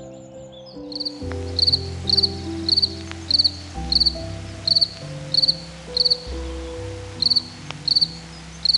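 Cricket chirping in an even rhythm, about two short chirps a second, starting about a second in, over soft background music.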